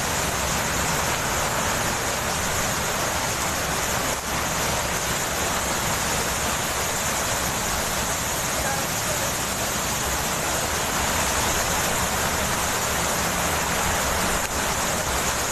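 Steady rushing of a waterfall close by, an even wash of falling water with no let-up.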